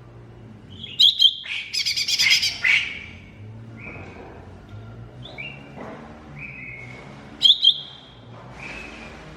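Cucak ijo mini (lesser green leafbird) singing. It gives loud sharp notes about a second in, then a fast rattling trill, then softer whistled phrases, and another loud sharp double note near the end, over a faint steady low hum.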